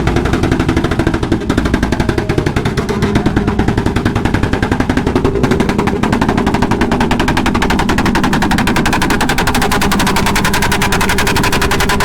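Motorcycle engine running loud with a fast staccato exhaust crackle, the pitch shifting as it is revved.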